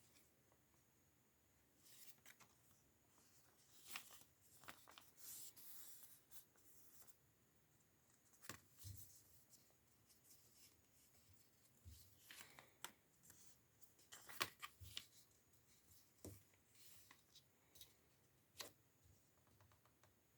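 Faint rustling and crinkling of origami paper being folded and creased by hand, in short scattered rustles with quiet gaps between.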